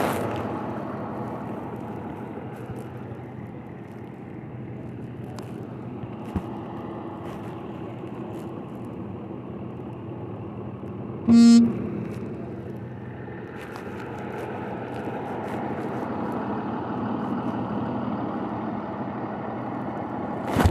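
Steady vehicle and road noise, with one short toot of a vehicle horn a little past halfway through.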